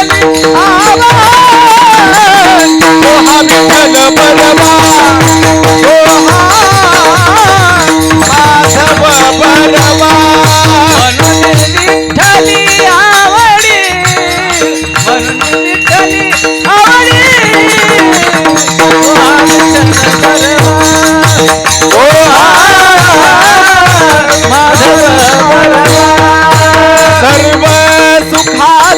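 Marathi devotional bhajan music: a high, ornamented melody, sung without clear words, bends and glides over a steady held drone, with pakhawaj drumming underneath.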